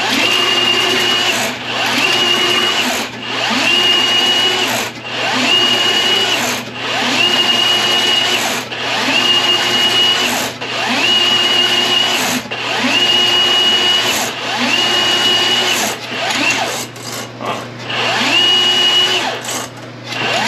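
Milwaukee M18 sectional drain machine running in repeated short bursts, about ten runs of a second and a half each with brief pauses between. Its motor whine rises at each start and then holds steady. The bare 7/8-inch cable is spinning as it is worked into a clogged main sewer line.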